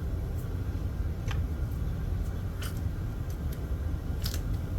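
Three sharp clicks about a second and a half apart over a steady low rumble, as the metal return-side access panel of a gas package unit is worked open.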